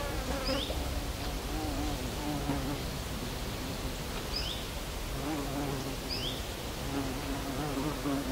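A flying insect buzzing close by, its hum wavering in pitch and coming and going as it moves around. Short high chirps recur every second or two over a low steady background rumble.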